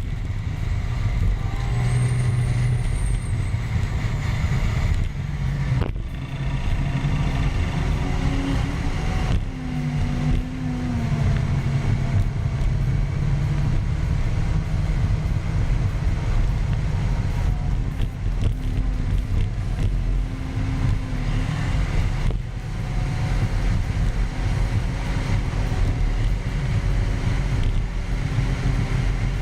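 Caterpillar D10 bulldozer's diesel engine running, its pitch rising and falling a little.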